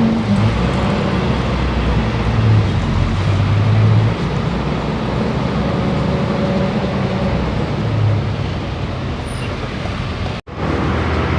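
Steady road traffic noise with a low engine rumble from passing vehicles, cut off briefly near the end.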